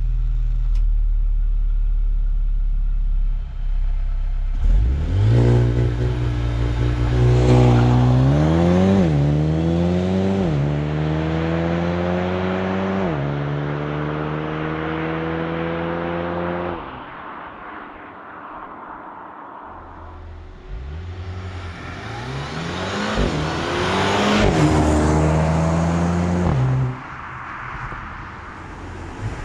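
Mercedes-AMG A35's 2.0-litre turbo four-cylinder, first running steadily, then accelerating hard from about five seconds in, its pitch climbing and dropping sharply at each of several quick upshifts of the dual-clutch gearbox. It eases off just past halfway, then a second shorter acceleration with a gear change follows and cuts off near the end.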